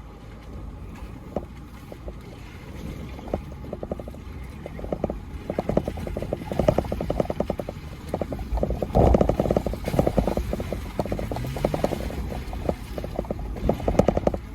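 4Runner crawling over loose rock, its engine running low beneath many irregular clicks and crunches of rocks and gravel under the mud tires. The crunching grows louder and denser about halfway through, and the engine rises briefly in pitch near the end.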